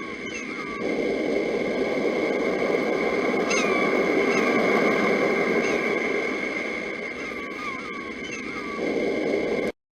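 Sea surf surging, easing and surging again, with a bird repeating short curved chirps over it and a steady high whine in the background. Everything cuts off suddenly near the end.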